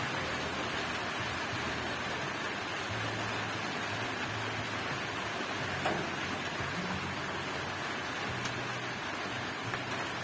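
Heavy rain falling, a steady even hiss, with one sharp tap about six seconds in.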